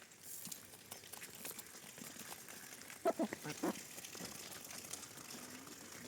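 Chickens clucking, with a short burst of loud clucks about three seconds in and a drawn-out low call near the end, over steady scratchy rustling.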